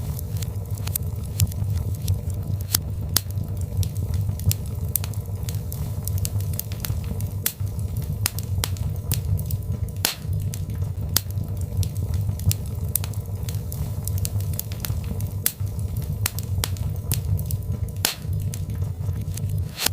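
Birchwood fire crackling in a fireplace: a steady low rumble of flames with sharp, irregular pops and snaps of the burning logs, a few each second.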